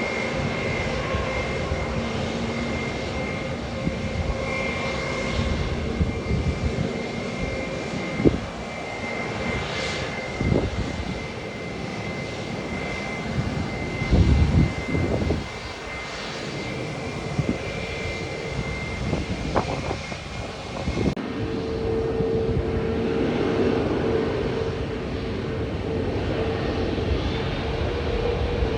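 Jet airliner engines running with a steady whine over a constant roar. A few low bumps come through near the middle, and about two-thirds of the way in the sound changes abruptly to a lower, steady hum.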